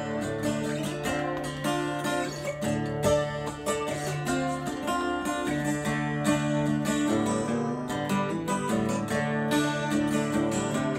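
Instrumental break of a country song: strummed acoustic guitar with other plucked strings playing a steady rhythm, no singing.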